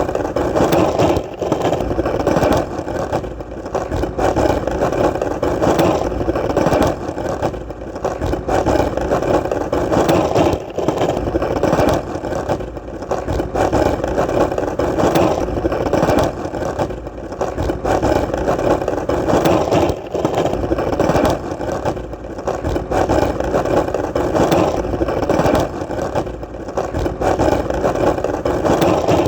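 Skateboard wheels rolling on hard ground: a continuous rumble, with brief dips and light clicks every few seconds.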